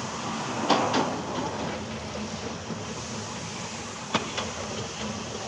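Train running: a steady rushing noise broken by two pairs of sharp clicks, one about a second in and another about four seconds in.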